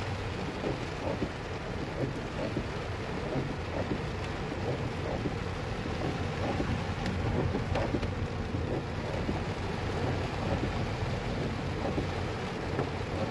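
Heavy rain pattering steadily on a moving car's roof and windshield, over the low rumble of the car driving on the wet, flooded street, with scattered sharp drops and a couple of clicks.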